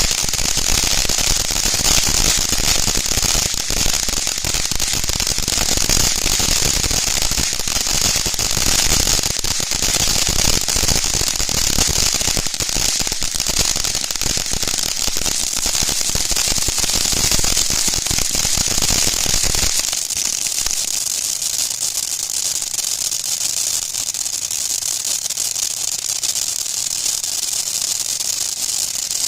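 TNT Wizard Alley firework fountain spraying with a steady loud hiss and dense crackling. About twenty seconds in the crackling stops and a thinner hiss carries on.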